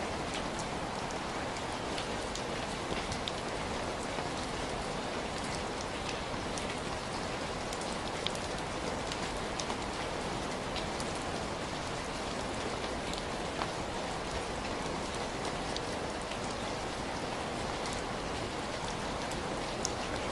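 Heavy rain falling steadily, a dense hiss with many sharp drop ticks scattered through it.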